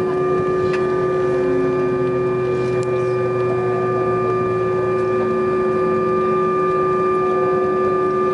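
Steady drone inside an airliner's cabin: a constant hum built of several fixed tones from the aircraft's engines and cabin air system.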